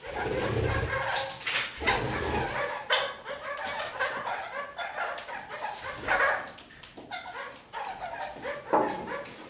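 Red-crowned parakeets (kakariki) calling: a string of short, sharp, yapping chatter calls, the loudest about two, three, six and nine seconds in, over a low rumble during the first couple of seconds.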